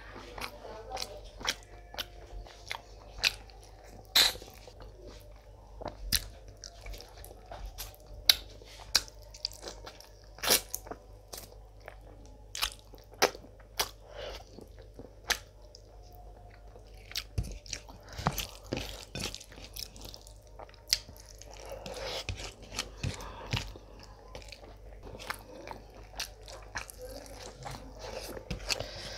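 Close-miked, open-mouthed chewing of rice and mutton eaten by hand, with many sharp, irregular lip smacks and mouth clicks.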